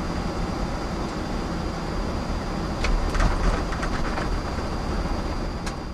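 Airbus A330 cockpit noise on the landing roll: a steady, heavy rumble of engines and airframe, with a burst of rattling clicks about halfway through.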